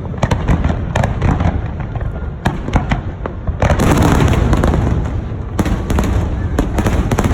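Aerial fireworks going off: rapid bangs and crackles over a continuous low rumble, with a dense burst of crackling about three and a half seconds in.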